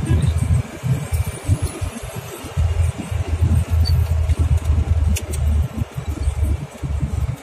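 Diesel car engine running while driving, heard from inside the cabin as a steady low rumble mixed with road noise; the engine is running on sunflower cooking oil instead of diesel fuel.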